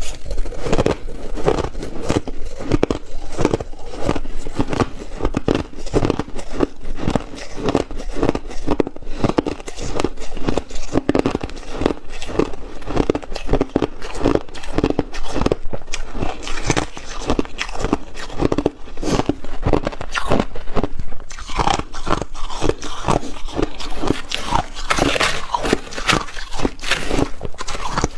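A person chewing and crunching ice, a rapid, continuous run of crisp crunches that get sharper and brighter about two-thirds of the way in.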